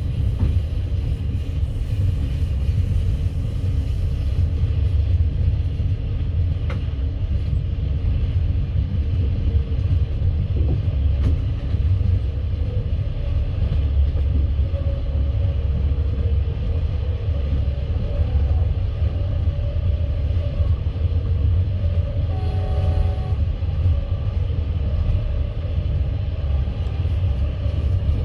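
Passenger train carriage running at speed: the steady low rumble of wheels on the rails and the car body.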